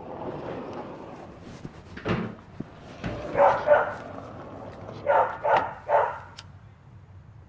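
A dog barking in short yelps: two quick barks about three and a half seconds in, then three more between five and six seconds.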